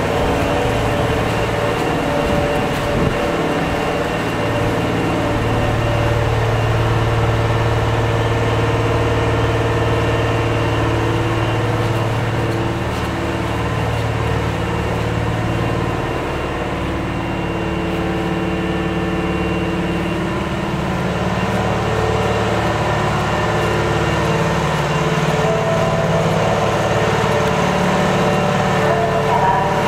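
Steady mechanical hum of an electric train, several held tones that shift slowly in level and pitch.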